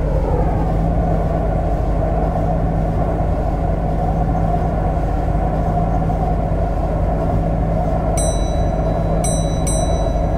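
MTR Kwun Tong Line C-Train running between stations: a steady rolling and traction drone with a low hum, and a gliding pitch change right at the start. Near the end come four short, high ringing pings.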